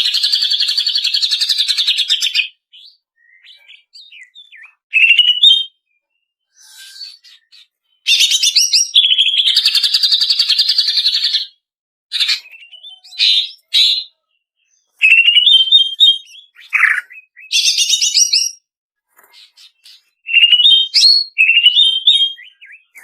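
Female greater green leafbird (cucak ijo) calling. It gives three long, rapid, buzzy trills: one at the start, one about eight seconds in and one about fifteen seconds in. Between them come short chips and brief whistled phrases.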